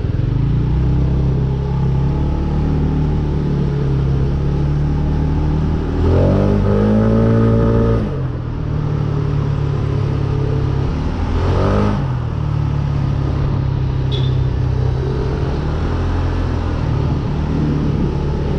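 Kymco KRV 180 scooter's single-cylinder engine running under way with a steady drone, rising in pitch twice as it accelerates, about six seconds in and again about eleven seconds in.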